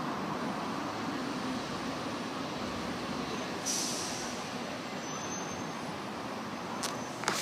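Metra commuter train running, a steady noise of the cars on the track, with a short burst of air hiss about three and a half seconds in. Two sharp clicks come near the end.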